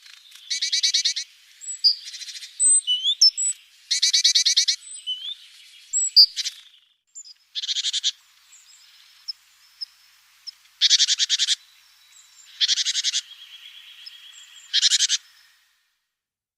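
Small songbirds calling: a series of short, rapid buzzy trills about half a second each, with thin high whistled notes between them, stopping shortly before the end.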